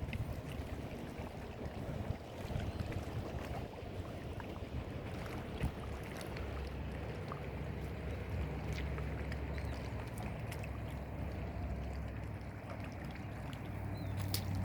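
Wind rumbling on the microphone outdoors, with a low steady rumble that grows fuller past the middle and a few scattered light clicks.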